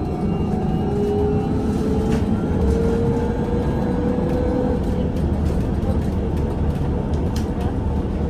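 VMZ Avangard trolleybus heard from inside while under way: a steady rumble with a thin electric motor whine that rises slightly in pitch over the first few seconds, then fades.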